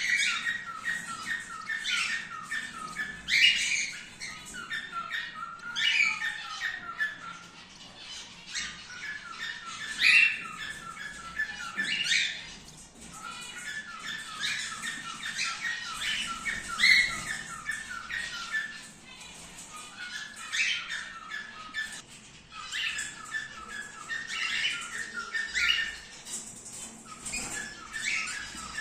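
Cockatiels chattering and squawking: a fast, continuous run of short repeated notes, broken every two or three seconds by a louder, rising squawk.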